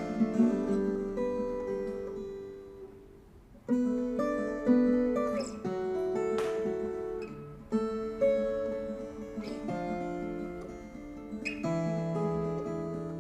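Viola caipira, the Brazilian ten-string guitar, played slowly: plucked notes and chords ringing out and dying away. The sound fades nearly to nothing about three seconds in, then the playing picks up again.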